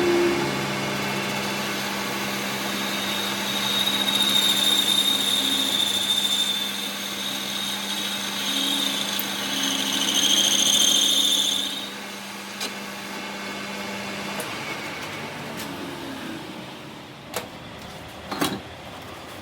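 A workshop power tool or machine running steadily with a high-pitched whine. The whine fades out about twelve seconds in and the low hum stops a little later, followed by a couple of sharp knocks near the end.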